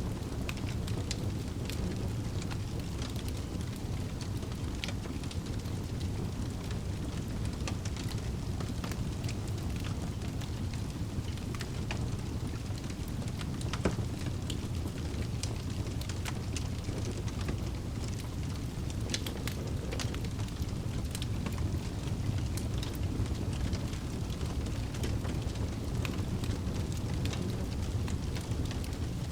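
Wood fire burning in a fireplace: a steady low rumble of flames with frequent small crackles and pops, one louder pop about halfway through.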